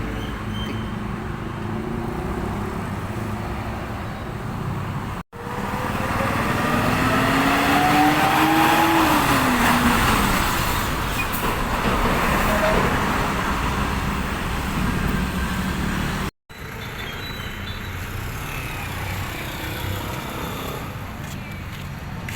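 Road traffic with heavy trucks passing, in three short clips joined by abrupt cuts. In the middle clip a truck passes close and runs louder, its engine note rising as it accelerates, then dropping away.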